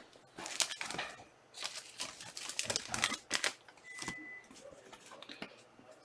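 A run of irregular light clicks and taps, with one short high beep about four seconds in.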